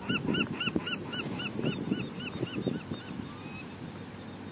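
A bird calling in a fast, even series of short high chirps, about five a second, loud at first and fading over the last second or two. Low rustling and thumps sound underneath.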